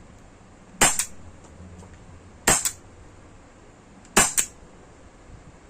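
CO2-powered Glock 17 Gen 5 blowback replica pistol firing .43-calibre rubber balls: three shots about a second and a half apart, each a sharp crack with a second click right after it.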